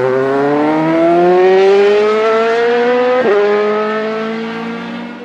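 Electric power tool's motor whining as it trims a piece of wood, its pitch climbing steadily for about three seconds, then dropping suddenly and holding steady as it fades.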